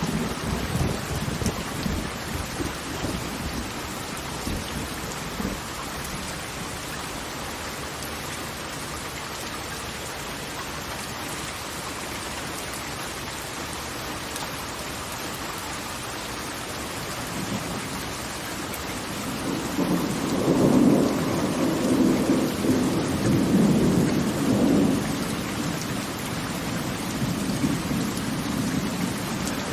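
Angel Falls waterfall rushing in a steady roar of falling water. A deeper, louder rumbling swell comes about two-thirds of the way through, then eases.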